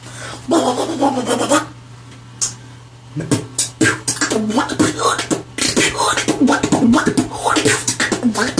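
Beatboxed 'duck sound': a quacking buzz made by forcing breath outward with strong friction past both back molars while the mouth opens from pursed lips into a 'wa' shape. One comes on its own about half a second in, then from about three seconds a quick rhythmic run of them.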